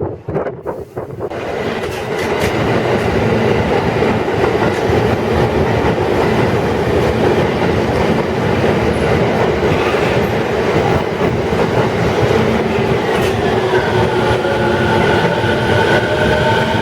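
Train running on the rails, heard from on board a 12-series passenger coach hauled by an EF65 electric locomotive: steady rolling noise of wheels on track. It is uneven for the first second or so, then settles, and a few faint whining tones come in near the end.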